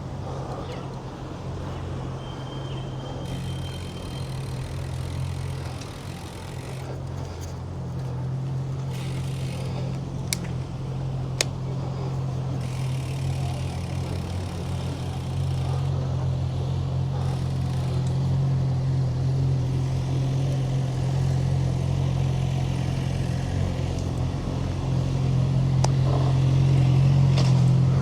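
Steady low rumble of wind and road noise on the microphone of a bicycle riding through city traffic, growing louder over the last few seconds. Two sharp clicks sound about ten and eleven seconds in.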